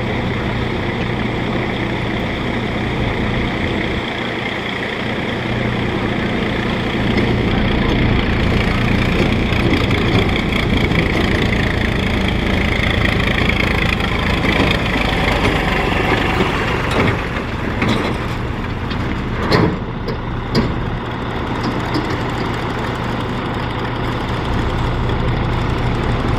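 Tractor engine running hard under load, rising in pitch through the middle, with a few sharp knocks near the end.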